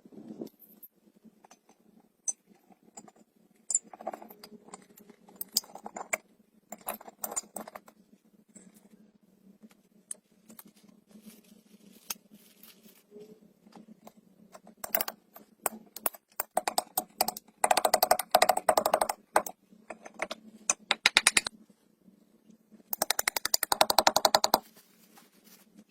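Hand tools working: scattered clicks and light taps, then two spells of fast, evenly repeated strokes, each lasting about two seconds, in the second half.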